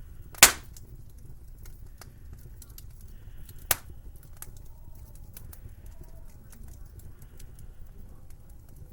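Wood fire crackling in a fireplace: many small irregular crackles over a low rumble, with two loud sharp pops, the first about half a second in and the second near the four-second mark.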